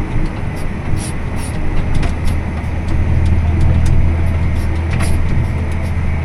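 Tractor engine running steadily under load, heard from inside the cab. It grows louder about three seconds in as it works harder through wet ground where the tires drag, with light clicks and rattles over it.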